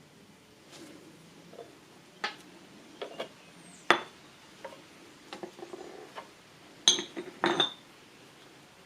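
Hard objects clinking and knocking together in an irregular series of sharp clinks, the loudest about four seconds in and a quick cluster near the end.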